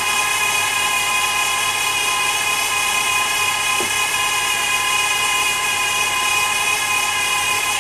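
Automatic transmission of a 2002 Dodge Stratus 4-cylinder, engine running, giving off a steady dry whirring whine. The owner suspects something is starving the transmission of fluid pressure, such as a clogged filter, a hardened filter gasket or a bad pickup O-ring.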